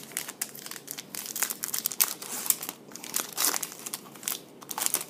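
Foil wrapper of a trading-card pack crinkling and tearing as it is opened by hand: a dense run of sharp crackles and rustles, busiest in the middle.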